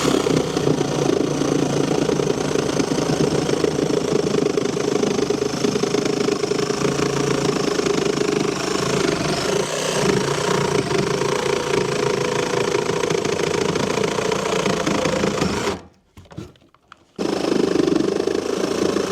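Reciprocating saw (Sawzall) running steadily as it cuts through old wooden framing. It stops for about a second near the end, then starts cutting again.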